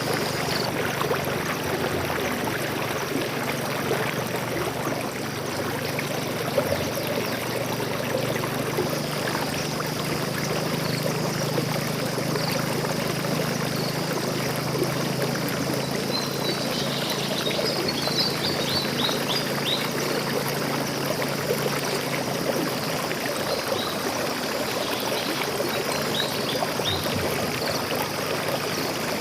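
A stream flowing and splashing steadily. Small birds chirp in short rapid runs over it near the middle and again towards the end.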